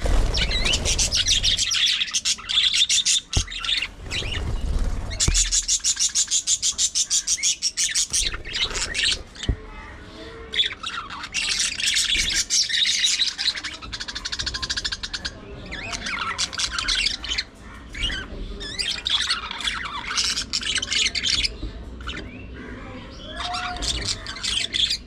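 Budgerigars chattering and warbling in bursts, with a run of fast, evenly repeated chirps about five seconds in.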